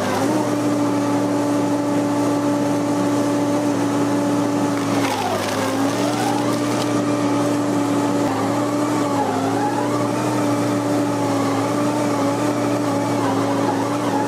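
Wood chipper running steadily at one even pitch, which sags briefly and recovers about five seconds in and again about nine seconds in.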